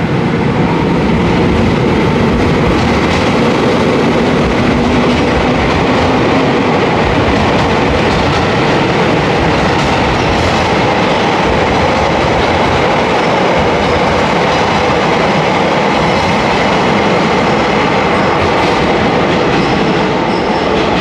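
Train pulling in along the platform at close range, a loud, steady rumble of wheels on rail.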